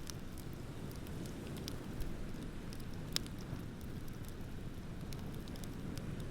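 Beach bonfire crackling, with scattered sharp pops (the loudest about three seconds in) over a steady low rush of ocean waves.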